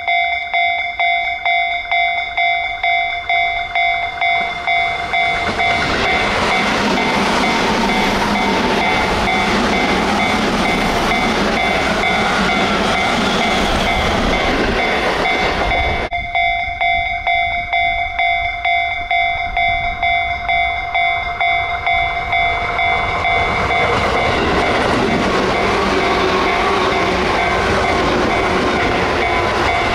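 A railway level-crossing alarm bell ringing at a steady pulse of about two strokes a second, drowned about five seconds in by the loud running noise of an electric commuter train passing close by. At about 16 seconds the train noise breaks off and the crossing bell is heard again, until a train passing close drowns it once more.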